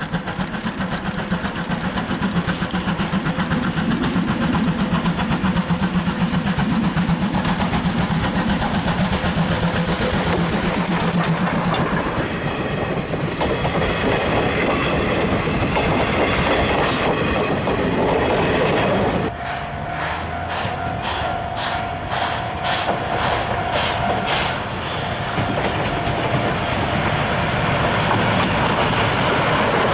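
Steam-hauled train of C12 66 and its coaches running on the track, wheels clattering over the rail joints. The sound changes abruptly about two-thirds of the way through.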